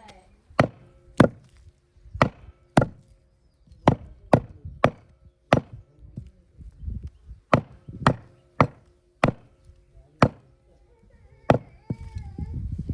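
Butcher's cleaver chopping through goat meat and bone on a chopping block: about fourteen sharp, hard strikes in irregular runs, some close together and some a second or more apart.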